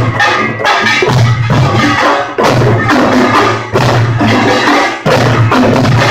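Korean pungmul percussion troupe playing loudly: repeated drum strokes under a bright clatter of gongs, in phrases broken by brief gaps about every second. It is recorded through a phone microphone, so the sound is harsh.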